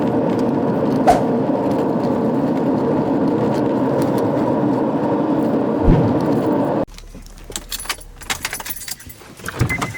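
A car driving, with steady road and engine noise. It cuts off abruptly about seven seconds in, and a few quieter clicks follow.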